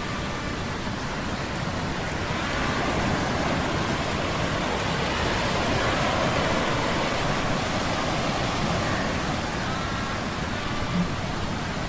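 Sea-storm sound effect mixed with humming metal gears: a steady rushing noise that swells a little a few seconds in, with faint gliding tones laid over it.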